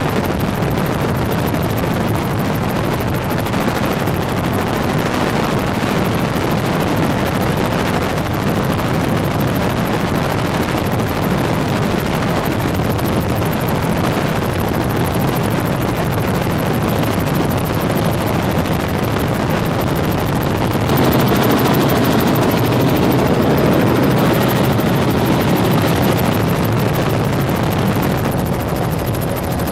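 Helicopter in flight, a steady, loud drone of rotor and engine noise heard from inside the cabin, getting a little louder about two-thirds of the way through.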